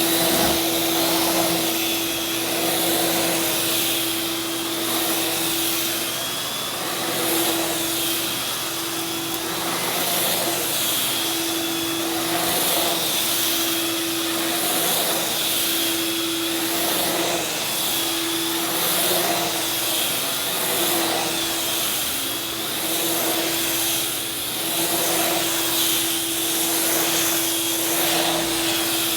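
Oreck vacuum cleaner running steadily on dry carpet, a motor hum with a high whine. The sound swells and eases about every two seconds as it is pushed back and forth in passes.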